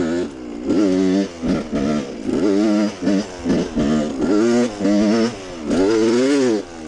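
Dirt bike engine revving in short bursts as it is ridden: the pitch climbs and drops about eight times with brief lulls between, then one longer rev rises and falls near the end.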